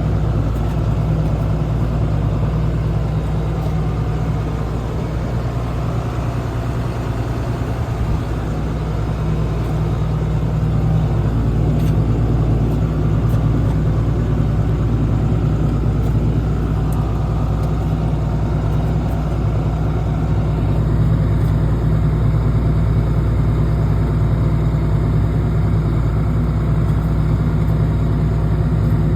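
Tractor engine running steadily, a constant low drone that grows a little louder about ten seconds in.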